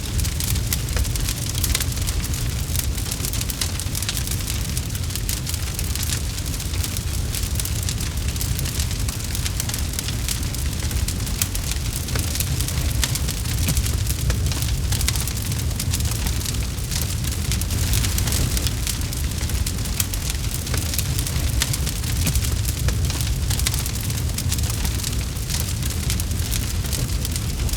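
Campfire crackling: dense, constant small pops and snaps of burning wood over a steady low rumble of the flames.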